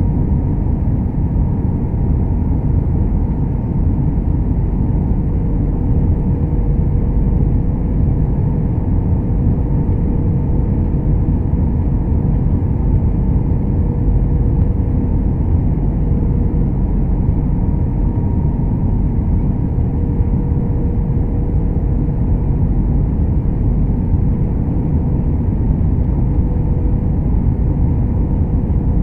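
Steady low rumble of an Airbus A321-200 heard from inside the passenger cabin: jet engine and airflow noise, with a faint steady whine over it.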